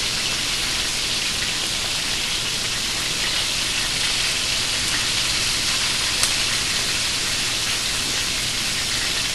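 French fries and hamburger patties frying in hot oil on the stove: a steady, even sizzle, with one small click about six seconds in.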